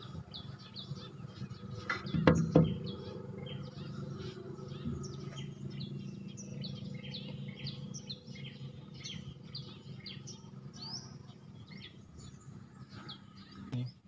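Small birds chirping in quick, repeated short calls, with a couple of loud knocks about two seconds in and a low steady hum underneath.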